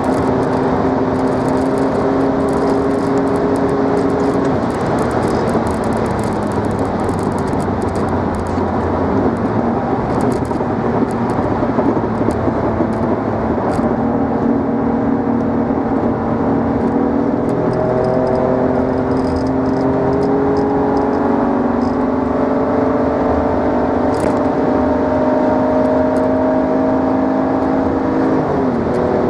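BMW E39 engine running through a quad exhaust, its note rising and falling slowly as the revs change, with a quick drop in pitch near the end.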